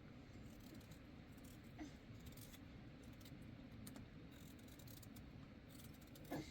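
Near silence: faint room tone with a few soft clicks, one about two seconds in and one near the end.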